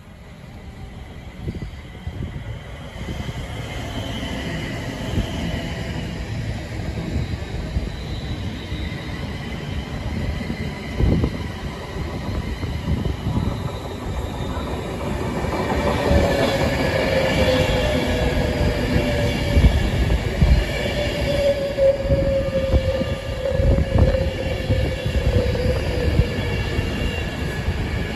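Avanti West Coast Class 390 Pendolino electric train drawing into the platform, growing louder as it comes alongside, with wheels clicking over the rail joints. Over the second half a whine slowly falls in pitch as the train slows to stop.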